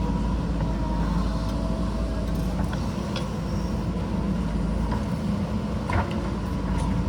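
JCB backhoe loader's diesel engine running steadily, with a sharp knock about six seconds in.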